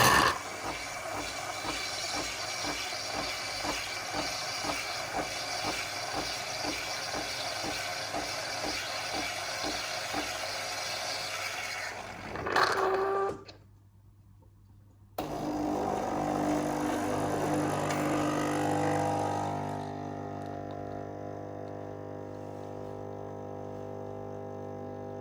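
Nespresso Lattissima Touch coffee machine at work: a steady hissing, pulsing run as it froths the milk, a short clunk and about two seconds of quiet, then a steady pitched pump hum as the coffee is brewed.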